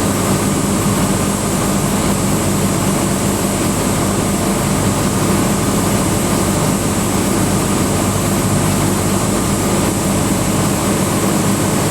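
Cessna 172 Skyhawk's four-cylinder Lycoming engine and propeller droning steadily, heard from inside the cabin in flight.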